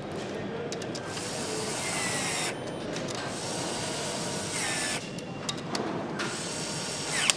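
Power tool running in three bursts of a second or two each, each ending with a short pitch glide, with a few sharp clicks between the second and third.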